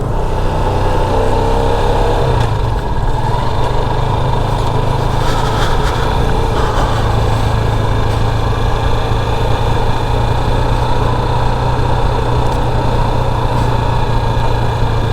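Motorcycle engine running while riding; its note shifts in the first couple of seconds, then holds steady.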